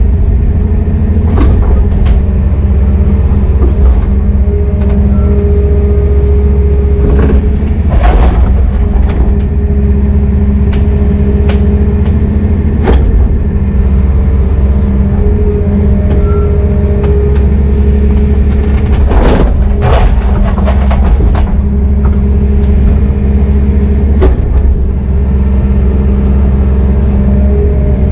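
Heavy diesel excavator running under load, a Brøyt X21, with a steady engine drone and a hum that strengthens and fades. Several sharp metal clanks and knocks come through, the clearest about 8, 13, 19 to 20 and 24 seconds in.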